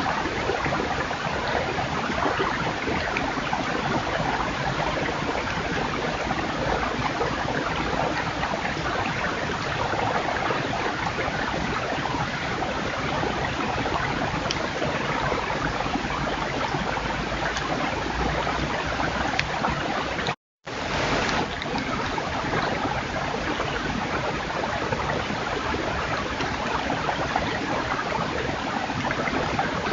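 Steady rushing noise with no distinct events, broken by a brief total silence about twenty seconds in, where one recording ends and the next begins.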